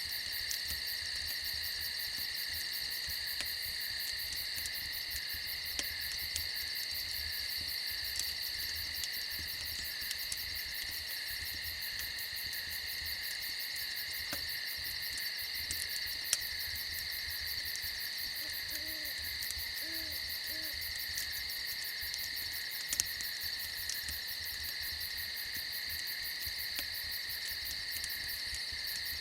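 Steady chorus of chirping crickets, with a few sharp crackles from a campfire. Three faint low hoots come about two-thirds of the way through.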